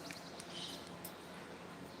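A brief, faint high chirp from a bird about half a second in, over a low steady background hiss.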